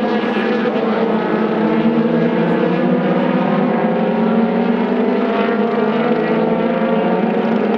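Race car engines running at high revs, several engine notes overlapping and slowly rising and falling in pitch.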